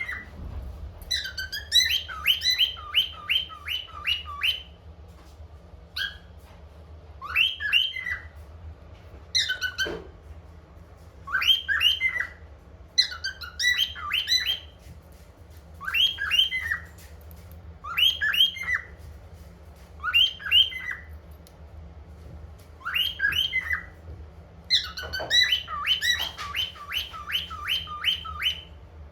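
Cockatiel whistling and chirping in short repeated phrases of rising and falling notes, one burst every second or two, over a faint steady low hum.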